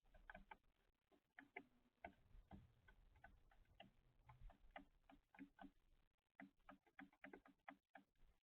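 Faint, irregular tapping and ticking, several a second: birds pecking at seed on a feeder. A faint low rumble runs under it through the middle.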